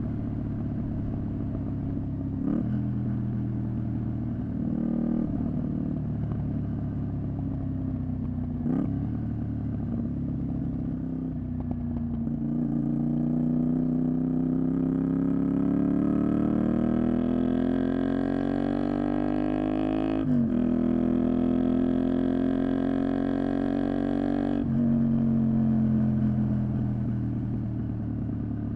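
Honda VTR250's V-twin engine through a Moriwaki exhaust while riding: a steady note for a while, then a long pull with rising pitch, a sudden drop at an upshift about twenty seconds in, another pull, and a second drop near the end as the engine eases off.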